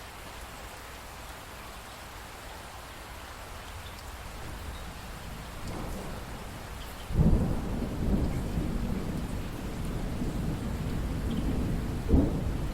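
Steady rainfall, then a little over halfway through a sudden clap of thunder breaks in and rumbles on, with a second loud crack near the end.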